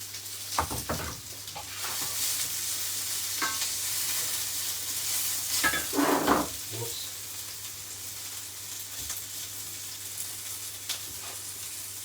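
Red onion and chopped orange pepper frying in coconut oil in a pan, with a steady high sizzle. A few sharp knocks through it, and a louder scrape about six seconds in.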